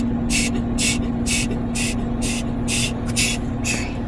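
Automatic car wash water jets sweeping over the car, heard from inside it: rhythmic hissing pulses about twice a second over a steady machine hum.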